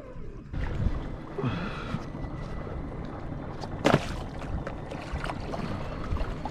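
Fishing kayak on the water: a steady low water-and-hull noise, with one sharp knock about four seconds in.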